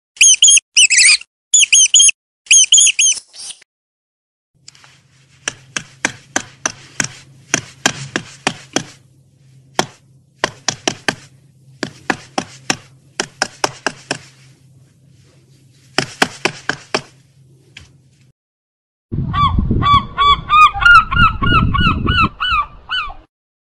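High, quick mouse squeaks in short bursts. Then a long run of sharp, rapid crunching clicks as a rodent gnaws food, over a faint steady hum. Near the end, gulls give loud, repeated falling calls over a heavy low rumble of wind or surf.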